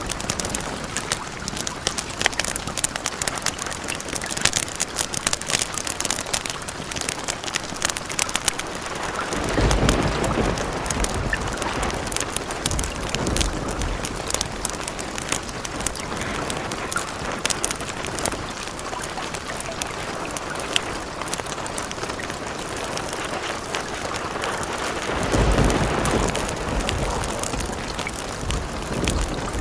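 Steady rain mixed with the sharp crackle of a wood fire, with two low rolls of thunder, one about ten seconds in and another near the end.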